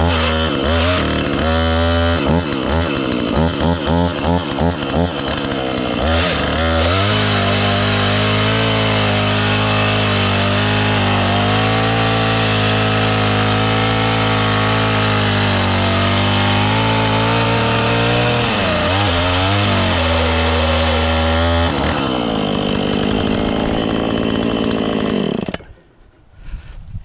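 Husqvarna chainsaw revved in quick bursts, then held at steady full throttle for about fifteen seconds while cutting a dead elm, easing to a lower speed before the sound cuts off sharply near the end. The chain is dull, which the owner says can be heard.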